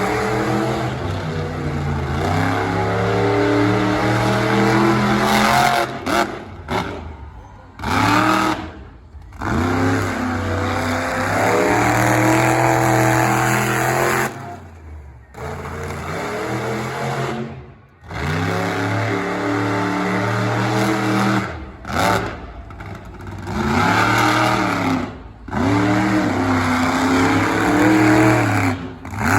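Monster truck engine revving hard again and again, its pitch rising and falling, broken by several sudden short cut-outs.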